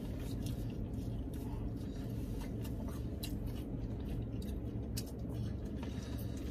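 Close-up chewing and mouth sounds of someone eating, with scattered small clicks and smacks, over a steady low hum in a car cabin.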